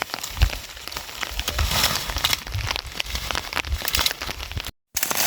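Rain falling on surfaces: a dense, irregular patter of drop ticks over a steady hiss, with a few dull low thumps. The sound cuts out for a moment near the end.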